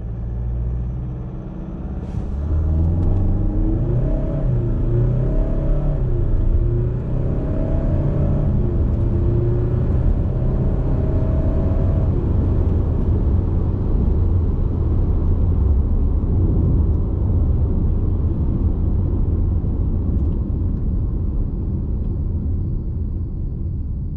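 2021 Kia Sorento's 2.2-litre turbo-diesel four-cylinder accelerating hard, its pitch climbing and dropping back several times as the eight-speed dual-clutch gearbox shifts up. From about halfway it runs on steadily at speed, without clear rising pitch.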